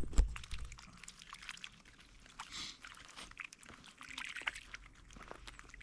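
Water sloshing and trickling, with scattered small splashes and clicks.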